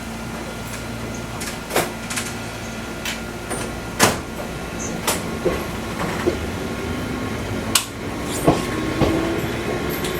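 Fukui Railway 200-series railcar standing at a stop, its equipment humming steadily, with scattered sharp clicks and knocks. Near the end a tone begins to rise as the railcar starts to pull away.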